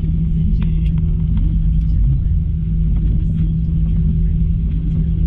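Steady cabin noise of an Airbus A321 airliner: a continuous low rumble of its jet engines and air, with a steady hum running under it.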